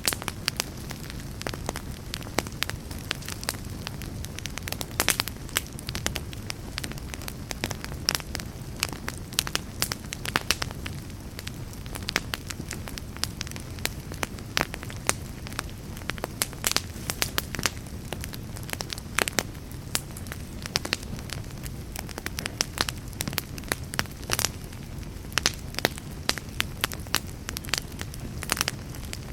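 Log fire crackling in a fireplace: frequent, irregular sharp pops and snaps over a steady low rush of burning wood.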